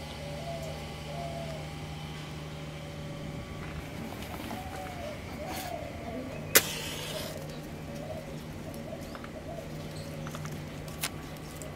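Birds cooing in repeated short calls over a steady low hum that drops out for a few seconds in the middle. A single sharp knock about six and a half seconds in.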